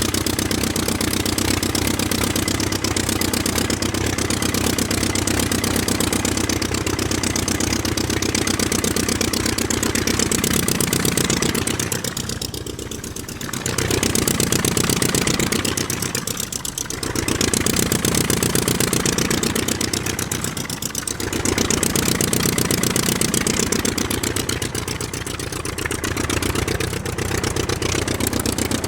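Mini diesel engine running steadily with an even firing rhythm. Its sound dips and swells back several times.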